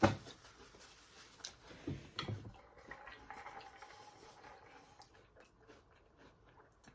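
A person chewing and smacking on a mouthful of food close to the microphone, with small wet clicks and a couple of soft thuds. A sharp knock comes right at the start.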